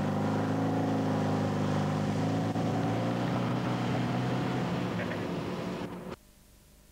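Car engine running steadily at an even pitch, then cutting off suddenly about six seconds in.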